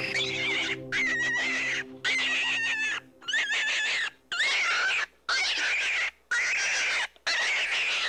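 A bird calling over and over, roughly once a second, each call just under a second long with short silent gaps between. Soft music under the first calls fades out about three seconds in.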